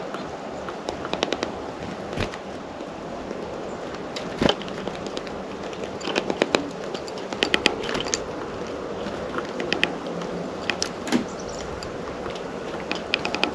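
Sharp taps and clicks from birds at the feeder pecking and cracking seed close to the microphone, some single, some in quick runs of several taps, over a steady background hiss.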